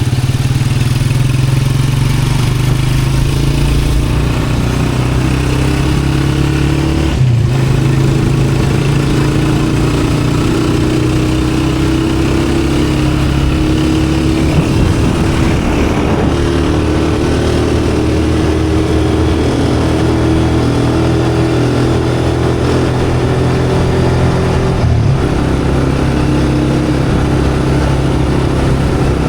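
A motor vehicle's engine running steadily, its pitch shifting briefly about seven seconds in and again near the end.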